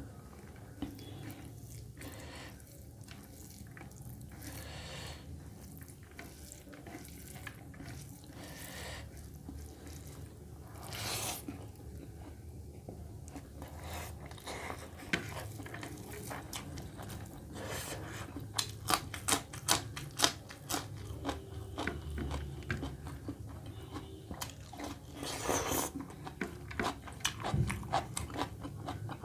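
Close-miked eating: a person chewing and biting mouthfuls of mutton curry and rice, with many wet mouth clicks that come thickest in the second half, and a couple of short noisy swells of breath or slurping.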